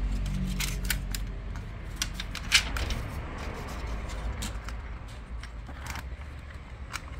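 Scattered light clicks and taps of plastic laptop parts being handled as the keyboard and top-case assembly is worked loose during disassembly, with one sharper click about two and a half seconds in.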